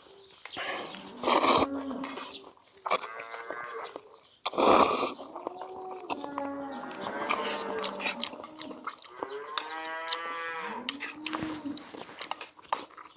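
Cattle mooing again and again, a run of short calls that rise and fall in pitch, with two loud, brief rushing noises about a second and a half and about five seconds in.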